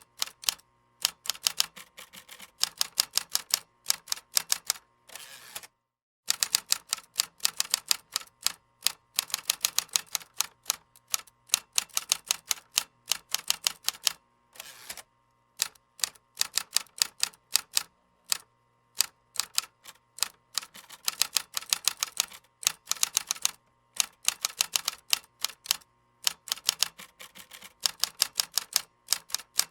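Keyboard typing: fast runs of sharp key clicks in bursts, broken now and then by short pauses.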